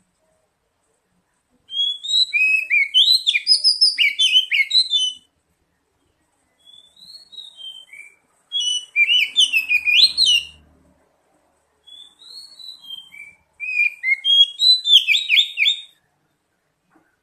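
Oriental magpie-robin (kacer) singing: three loud phrases of rapid, varied whistled notes, each a few seconds long, with quieter short calls between them.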